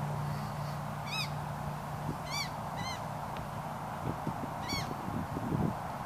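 A bird's short, harsh calls, four of them, over a steady outdoor hiss. Footsteps crunch on dry grass and leaf litter near the end.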